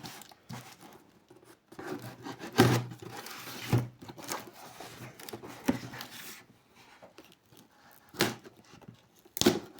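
Cardboard parcel and its packing being handled: rustling and scraping, broken by several short, sharp knocks.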